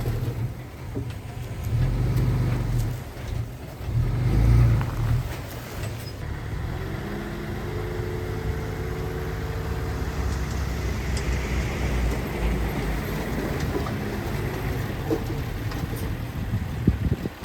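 Heavy diesel machinery engine running, surging louder twice in the first five seconds and then running steadily with a faint whine.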